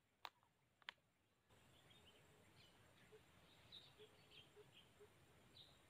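Near silence: two short soft clicks in the first second, then faint background hiss with scattered faint high bird chirps.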